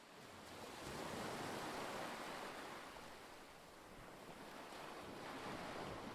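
Ocean waves washing in a steady rush. It fades in, swells about a second in, eases off, then swells again.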